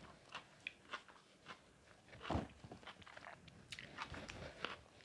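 A person chewing a mouthful of broccoli close to a clip-on microphone: faint, soft chewing with scattered small mouth clicks, and one louder crunch a little over two seconds in.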